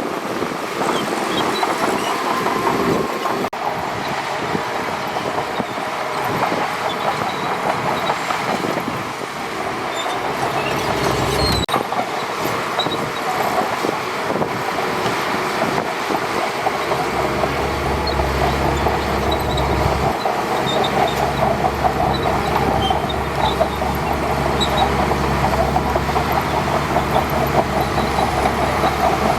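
Shantui DH17C2 crawler bulldozer working: diesel engine running with the clatter and squeak of its steel tracks. A deeper engine drone comes in a little past halfway.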